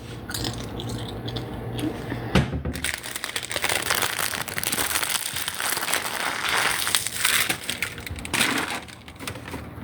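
Snack-chip bag crinkling and rustling as it is handled, a dense crackle starting about three seconds in and easing off near the end.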